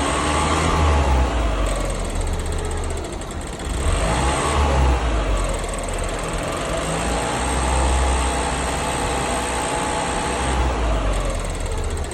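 The Alfa Romeo Giulietta QV's 1750 TBi turbocharged four-cylinder engine running, its revs rising and falling several times instead of holding a steady idle. The owner complains of a ticking sound and a poor idle.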